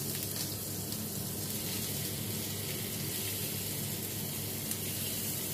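Pre-steamed bitter melon rings sizzling steadily in hot oil in a lightly oiled frying pan.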